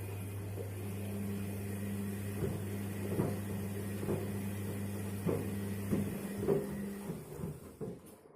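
Washing machine running with shoes inside, a steady motor hum under irregular knocks of the shoes hitting the drum about once a second. The hum cuts out about six seconds in, a few last knocks follow, and the sound dies away.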